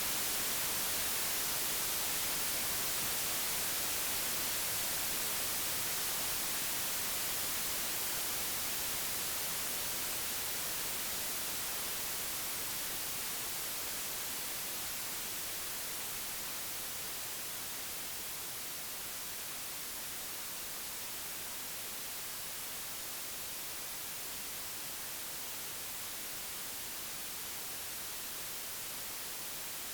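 Computer-generated white noise: an even, steady hiss, strongest in the high end, that slowly grows quieter over the first half and then holds level.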